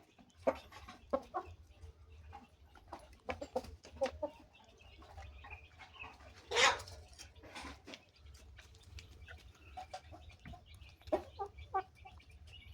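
Bangkok fighting chickens clucking, a string of short separate calls and sharp sounds, the loudest about six and a half seconds in.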